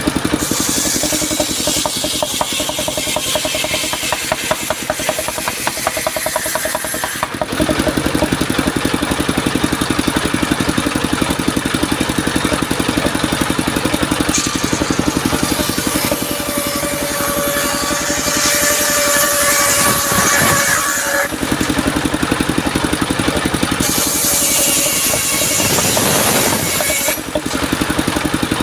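Engine-driven circular sawmill running, the engine firing in a steady rhythm throughout. For several seconds past the middle, the saw blade whines and hisses as it cuts through soft mahogany.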